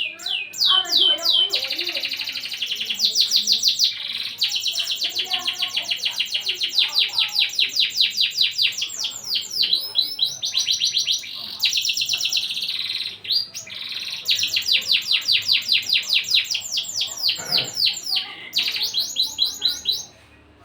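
Domestic canary singing long rolling trills: fast runs of evenly repeated high notes, one trill after another with brief breaks. The song cuts off abruptly near the end.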